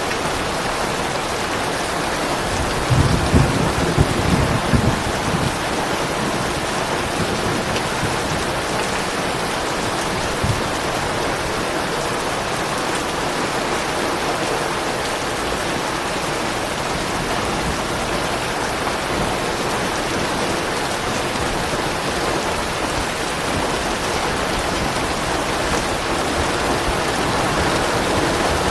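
Steady heavy rain falling, with a low rumble of soft thunder about three seconds in that lasts a couple of seconds.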